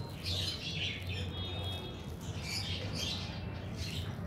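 Small birds chirping repeatedly in the background, short high-pitched calls coming every second or so.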